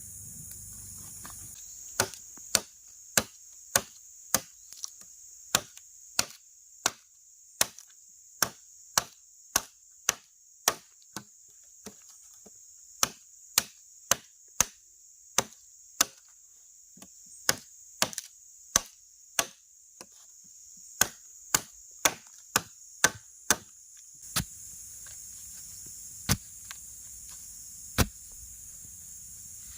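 A blade chopping wood with repeated sharp strokes, about one or two a second, pausing briefly partway and thinning to single strokes near the end. A steady high insect drone runs underneath.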